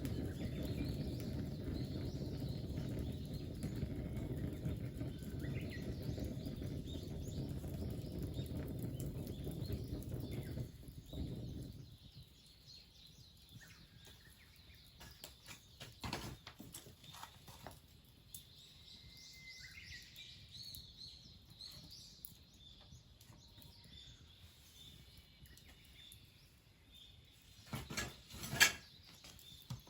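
A steady low rumbling noise for about the first eleven seconds, which stops suddenly. It leaves faint birds chirping and a few sharp clicks or knocks, the loudest near the end.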